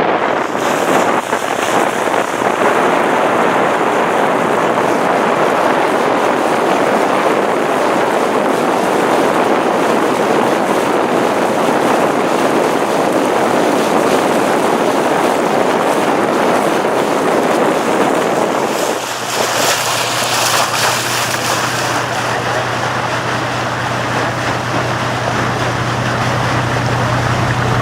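Wind rushing over the microphone and water noise aboard a tour boat under way. About two-thirds of the way through the rush drops back and a steady low engine hum comes to the fore.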